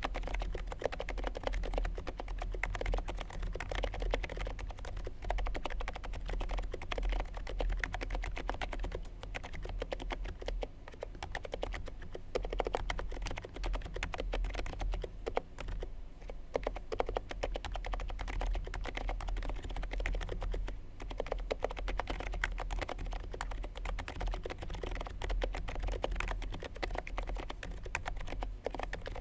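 Continuous fast typing on a Niz Duo 82 electro-capacitive (Topre-style) keyboard with lubed sliders, Deskeys Purple domes and GMK Modern Dolch keycaps: a dense run of muted keystroke clicks. A low steady hum runs underneath.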